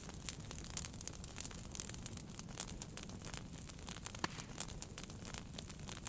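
Wood fire burning in a fireplace, with irregular sharp crackles and pops over a low steady rush of flame.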